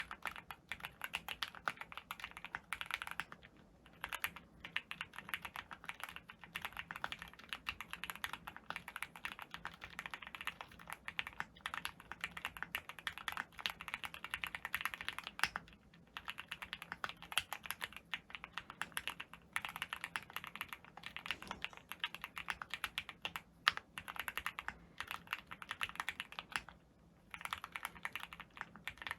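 Custom keyboard being typed on in quick, continuous runs of keystrokes, pausing briefly about four seconds in, around the middle and near the end.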